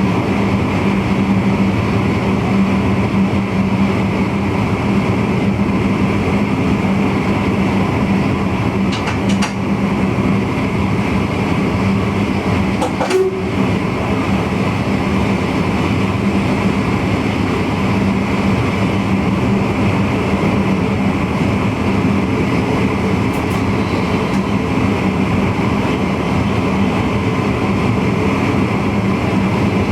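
A VIRM double-deck electric intercity train running along, heard in the driver's cab: a steady rumble with a constant hum, and a few brief clicks about 9 and 13 seconds in and again near 24 seconds.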